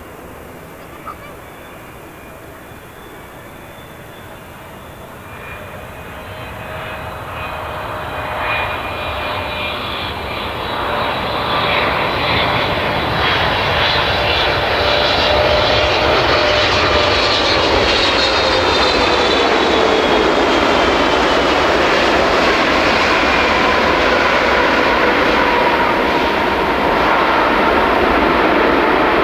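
Boeing 777 freighter's twin GE90 turbofan engines growing louder as the jet approaches. As it passes, several whining tones slide down in pitch over a loud, steady rumble.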